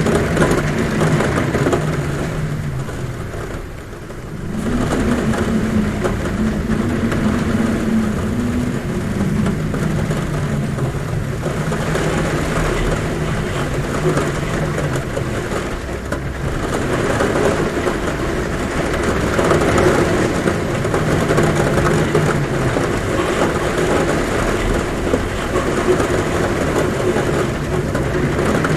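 Heavy rain on a roof with wind humming, a low drone that swells and falls under a steady dense hiss, easing briefly about four seconds in.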